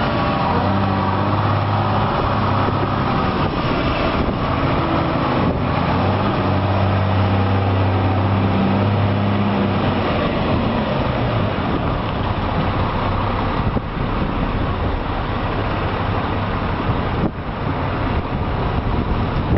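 Semi truck engine running, a steady low drone with road noise; the drone is clearest for about the first ten seconds and then blends into a rougher rumble of engine and road noise.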